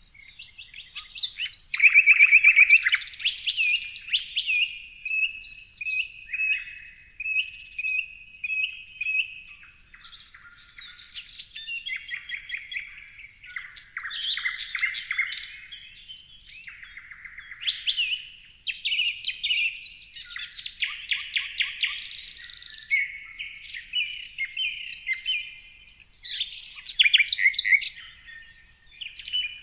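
Songbirds chirping and singing, a busy unbroken mix of quick chirps, whistles and trills from several calls.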